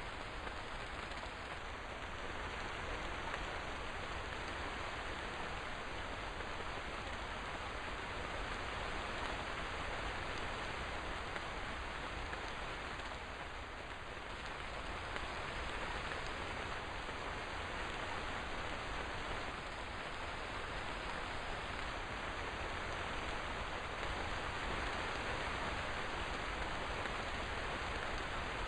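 Steady rainfall, an even hiss of rain without distinct drops standing out.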